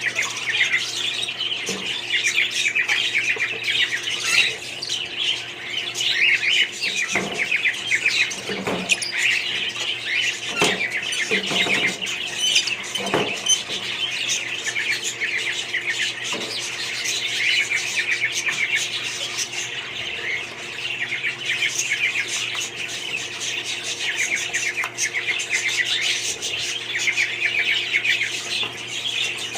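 A flock of budgerigars chattering and chirping, with many high warbling calls overlapping without a break.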